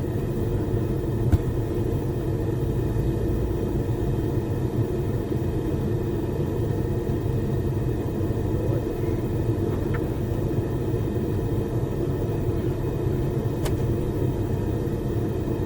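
Propane gas forge burners running with a steady low rush, with a couple of faint clicks.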